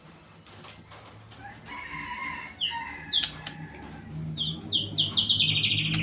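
A songbird singing: short whistled notes begin about a second and a half in and grow louder, then a quick run of notes steps down in pitch near the end, over a low steady hum.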